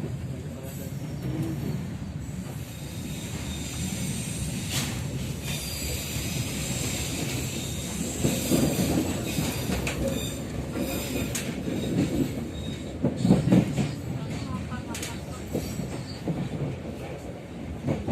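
Economy local passenger train running on the rails: a steady rumble of the wheels with a few sharp clacks.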